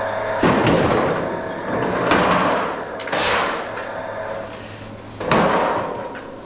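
Metal parts of an air conditioner clanking and scraping as they are pulled apart and handled during teardown for scrap, with four loud, irregular clatters.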